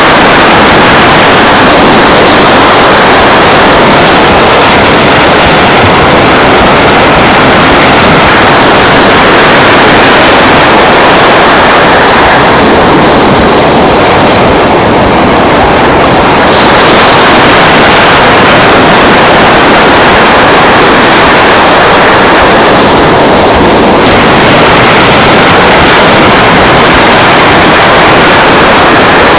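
Loud, steady rush of surf and wind on an open beach, an even noise with no single events, easing a little in its hiss a few times.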